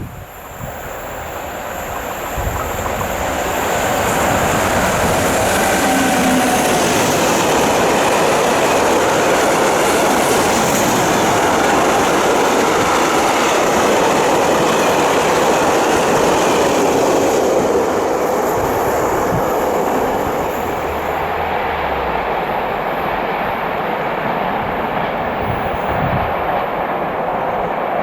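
A train running past on the line through a station, with rolling wheel and rail noise. It builds over the first few seconds, holds steady and loud, and eases a little about eighteen seconds in.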